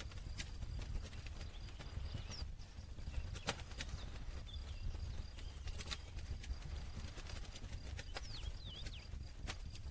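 Campfire crackling: wood burning with irregular sharp pops and snaps, several a second and unevenly spaced, over a steady low rumble of the flames.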